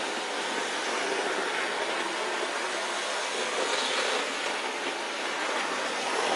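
Bachmann OO gauge model of an LNER Class A4 locomotive running on model railway track: a steady whirr of the small motor and wheels rolling on the rails.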